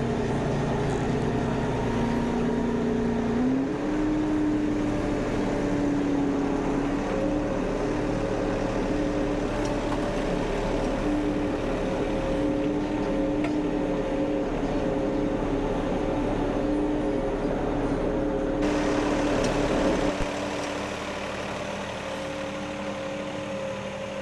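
Tractor engine running while the tractor drives. Its pitch steps up about three and a half seconds in, holds steady, then drops to a quieter, lower run near the end.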